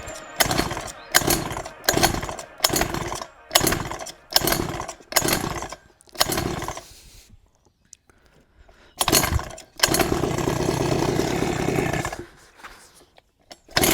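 49cc two-stroke engine of a Chinese mini dirt bike being cranked about nine times in quick succession, each turn a short sputter that fades without catching. After a pause it fires, runs steadily for about two seconds, dies, and catches again at the very end; it needed more throttle to get going.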